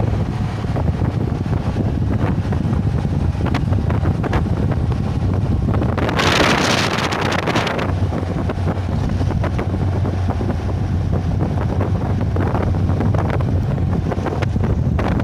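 Wind buffeting the microphone over a steady low rumble, with a louder rushing gust for about two seconds around the middle.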